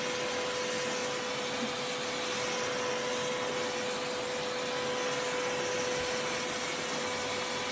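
Steady whir of a motor-driven blower or appliance, with a constant hum running through it.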